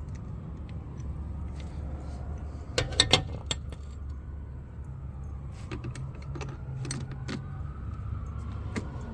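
Metal hand tools clinking and clicking as a 10 mm socket and wrench are handled and worked on the rear brake caliper bolts: a tight cluster of sharp clinks about three seconds in, then scattered single clicks, over a steady low hum.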